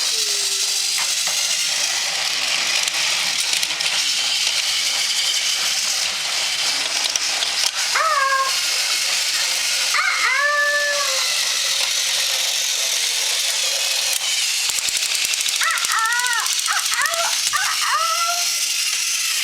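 Battery-powered toy train's motor and gears whirring steadily along a plastic track. Several short, high whining calls that rise and fall come over it about 8 and 10 seconds in, then a quick run of them near the end.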